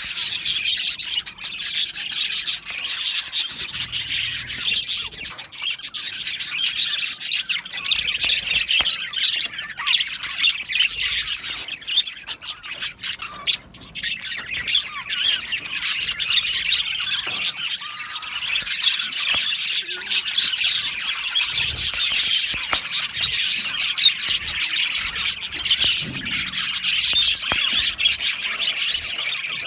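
A colony of budgerigars (budgies) chattering, chirping and squawking together, many calls overlapping without a break, easing briefly about halfway through.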